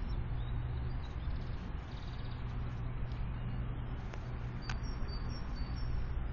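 Steady low rumble, with a click about five seconds in followed by a few short, high, thin chirps from a small bird at the feeder.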